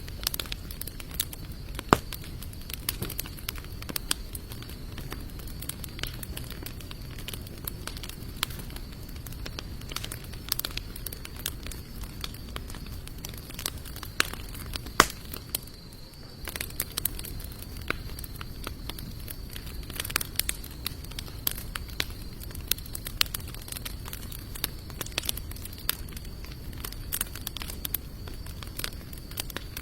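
Campfire of sawtooth oak and mixed hardwood logs crackling, with frequent sharp pops over a steady low hiss of burning; two pops, about two seconds in and about halfway through, stand out as the loudest.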